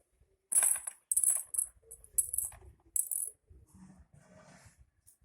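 A small hard rattling object, shaken or jingled in about four short bursts in the first few seconds, then faint.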